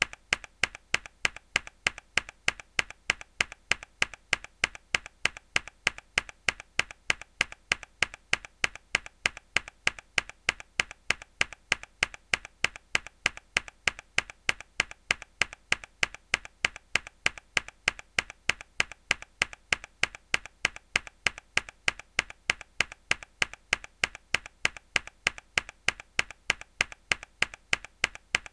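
Mechanical keyboard key pressed hard, again and again: a sharp click repeated at an even, quick pace, each one alike.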